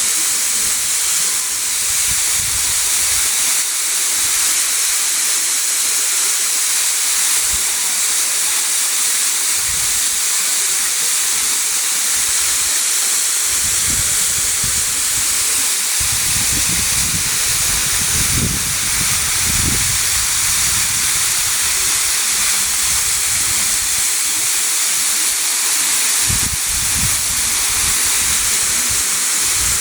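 Waterfall rushing: a loud, steady roar of falling water, with low rumbles coming and going around the middle and again near the end.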